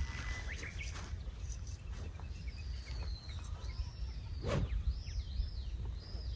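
Open-air ambience over a low steady rumble, with a bird calling in a series of short, arched whistled notes in the second half. A single short click comes about four and a half seconds in.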